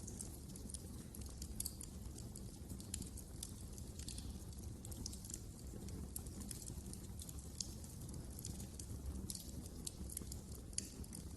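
Wood fire crackling in a fireplace: irregular sharp little pops and snaps over a steady low rumble of the burning fire.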